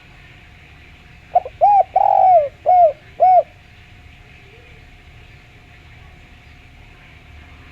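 Spotted dove (derkuku/tekukur) cooing: a single phrase of five clear coos about a second and a half in, the middle coo the longest.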